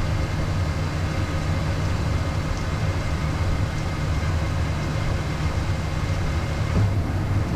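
Steady cockpit noise of a Beechcraft Premier 1A business jet in flight on approach: a constant low hum with an even rushing hiss of engines and airflow.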